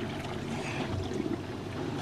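Small boat on open water: a steady low hum with water and wind noise around it.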